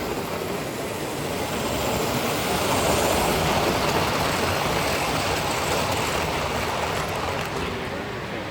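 A model train running past on its track, a rushing rumble of wheels and motor that swells as it nears, peaks about three seconds in, and slowly fades away.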